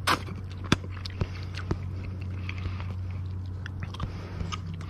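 A person chewing a mouthful of stir-fried rice noodles close to the microphone, with a few short wet mouth clicks, over a steady low hum.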